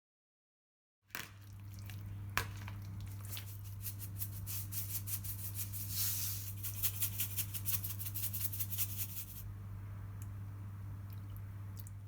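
Kitchen food-preparation handling sounds: rapid crackling and clicking that are densest in the middle and stop about nine seconds in, over a steady low hum.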